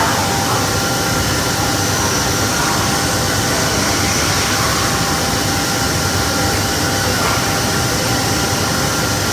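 CNC glass-cutting machine running: a steady mechanical drone and hiss with faint steady whining tones.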